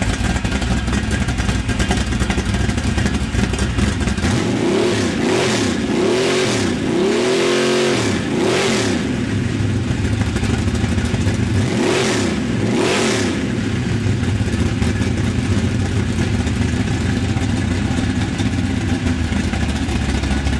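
Chevy 350 small-block V8 with dual four-barrel carburetors running on an engine test stand. It idles, then is blipped: four quick revs about a quarter of the way in and two more a little past the middle, each rising and falling back to idle.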